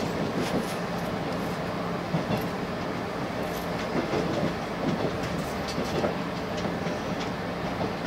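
Cabin sound of a JR West 381-series electric train rolling slowly into a station platform before stopping: a steady running rumble with a low hum, and scattered clacks of the wheels over rail joints and points.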